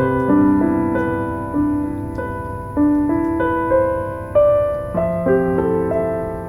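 Gentle solo piano music, single notes and chords struck every half second or so and left to ring out. Beneath it runs a low steady hiss with a few faint crackles, like a wooden-wick candle burning.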